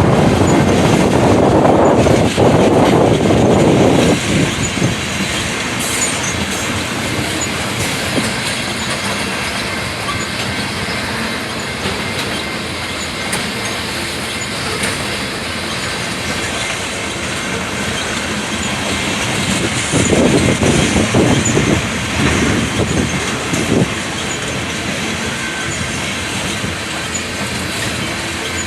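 Railroad cars rolling slowly past, wheels clattering over the rail joints with some wheel squeal. It is louder for the first few seconds and again about twenty seconds in.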